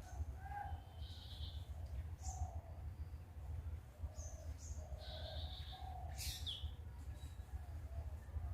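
Indian ringneck parakeet giving scattered short chirps and calls, the loudest a sharp call about six seconds in, over a steady low hum.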